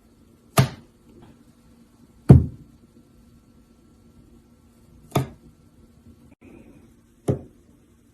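Four sharp knocks, irregularly spaced, the second the loudest, over a faint steady hum.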